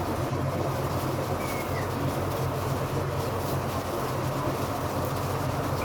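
Steady low machine drone, running evenly without a break.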